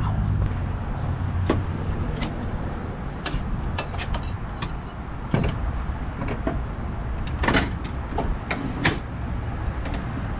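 Scattered knocks and clanks of a rebuilt front strut assembly and hand tools being handled as the strut is fitted back into a car's wheel well, over a steady low hum.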